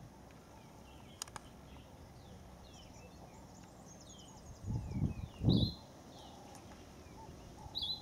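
Small birds chirping in the background with short, high, falling notes. Two dull low thumps come a little past halfway and are the loudest sounds, and a couple of sharp clicks come about a second in.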